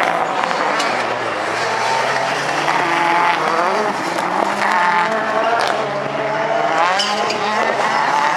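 Rallycross Supercars racing: several engines revving up and falling back through gear changes, with occasional sharp pops.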